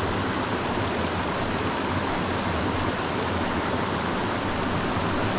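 Small mountain creek rushing and splashing steadily over rocks.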